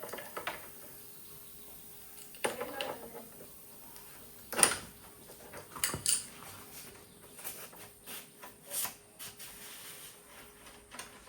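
A few scattered knocks and clicks, the loudest about four and a half seconds in, over a faint steady hum.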